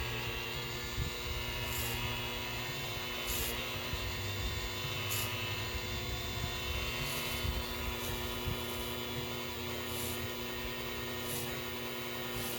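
Electric buffer running steadily on a boat's fiberglass gelcoat, a constant motor hum with faint swishes of the pad every second or two.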